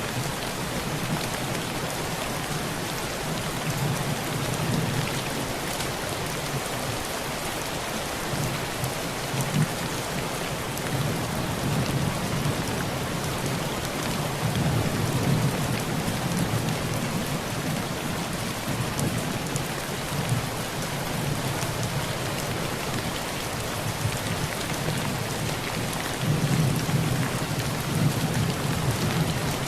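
Heavy rain pelting a tin roof in a steady, even hiss, with low rolling thunder that swells and fades, loudest about halfway through and again near the end.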